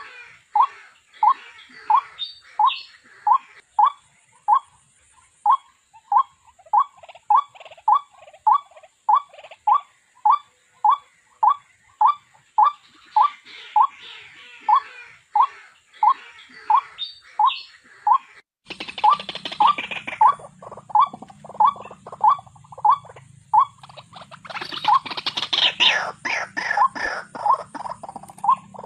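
White-breasted waterhen call played as a bird-trap lure: one short, slightly rising note repeated steadily about one and a half times a second. About two-thirds of the way in, a low hum and background noise join, with a burst of busier noise a few seconds before the end.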